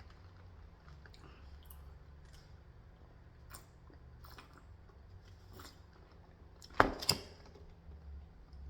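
A person chewing food close to the microphone, with small scattered mouth clicks. About seven seconds in come two loud sharp clatters, close together.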